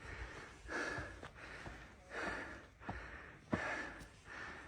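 A person breathing heavily and rhythmically close to the microphone, one loud breath about every second and a half, as if out of breath from climbing. Two short clicks come in the second half.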